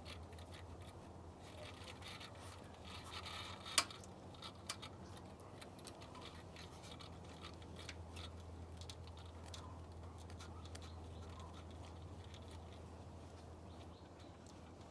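Grooming comb worked through a bichon's curly coat: faint scratching strokes with small clicks, one sharper click about four seconds in, over a steady low hum.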